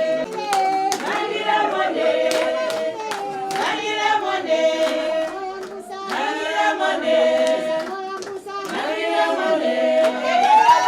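A group of voices singing together to hand clapping.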